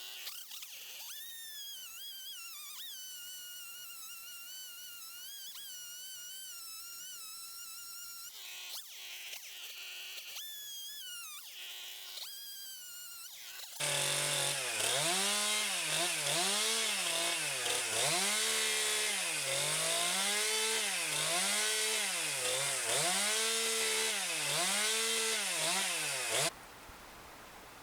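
Chainsaw running at high revs, its pitch rising and falling in regular swells about once a second as it cuts into the timber, then stopping abruptly; before it, a fainter wavering tone.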